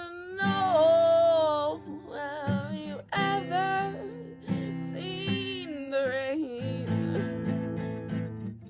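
Acoustic guitar strummed with a voice singing wordless held, wavering notes over it.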